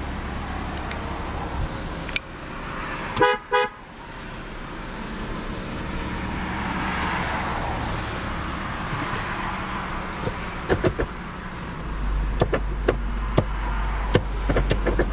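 A 2002 Lexus IS300's 3.0-litre inline-six idles steadily. A short two-part car horn honk sounds about three seconds in, and scattered light clicks come near the end.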